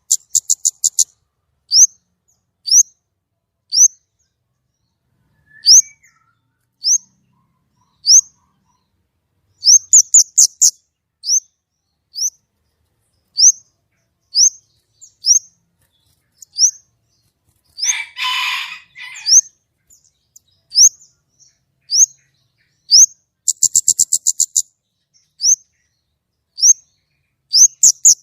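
A kemade songbird repeating short, sharp, high notes that sweep upward, about one a second: the 'nembak' shooting notes. A few quick rattling trills come in, near the start, about ten seconds in and near the end. Around two-thirds of the way through there is one harsh, rasping burst.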